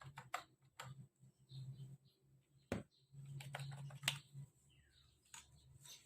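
Irregular clicks and taps as a new keyboard set and its packaging are handled. A few separate sharp knocks, the loudest about 3 and 4 seconds in, with a faint low hum at times.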